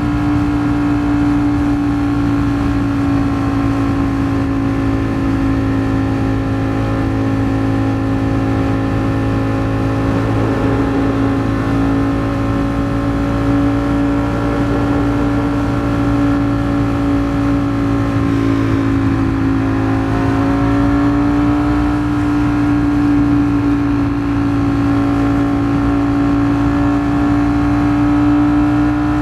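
Ducati Streetfighter V4 S's 1103 cc V4 engine held at steady revs at freeway cruising speed. Its pitch sags a little about two-thirds of the way through, then climbs back.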